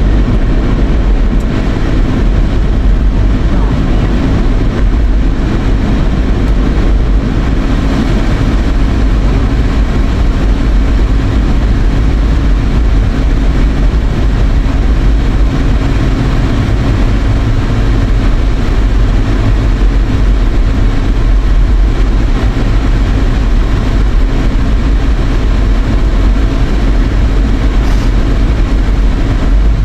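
Steady road and engine noise inside a moving car's cabin, with a strong low rumble, mixed with the air-conditioning fan blowing on high.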